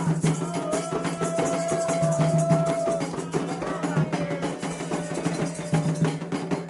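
Candomblé ritual music: atabaque hand drums beating a fast, dense rhythm, with a voice holding one long note from about half a second to three seconds in.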